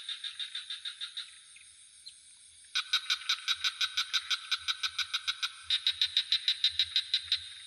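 Frogs calling in trains of rapid, evenly spaced pulses, about seven a second: one train dies away in the first second or so, then a louder one starts about three seconds in and a second caller joins it a few seconds later. A steady high insect trill runs beneath.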